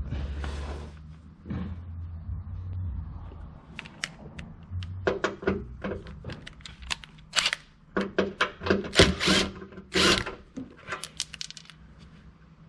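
A hand tool clicking, with metal clinks and knocks, as the Torx 30 bolts are undone from the car's underbody. The clicks are sharp and irregular and are thickest in the second half.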